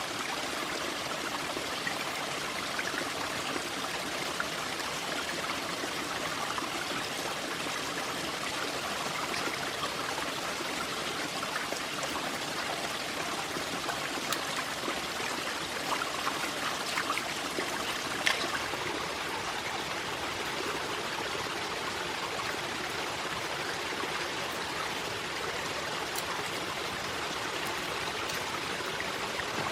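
Flowing water running steadily, with a few sharp clicks over it, the sharpest about eighteen seconds in.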